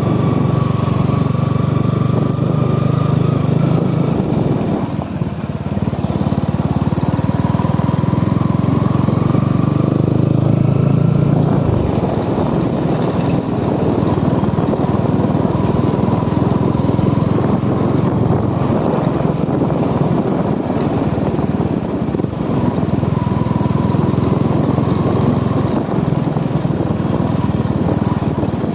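Motorcycle engine running, its pitch shifting now and then with speed, over a steady rushing noise.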